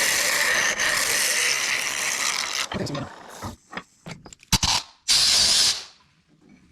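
Carbide hollowing tool cutting into a mesquite bowl spinning on a wood lathe, a steady rasping scrape of wood shavings that stops about three seconds in. Several clicks and knocks follow, one sharp and loud, then a brief hiss.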